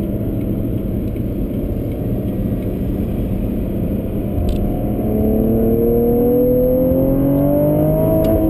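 Cadillac ATS-V's twin-turbo V6 heard from inside the cabin over road rumble, at first cruising, then from about five seconds in accelerating with its note climbing steadily. Right at the end the pitch starts to fall as the eight-speed automatic shifts up.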